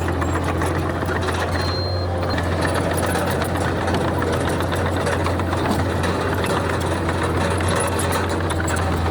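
Komatsu D31PX bulldozer's diesel engine running steadily under work, a deep constant hum with a fine rattle over it.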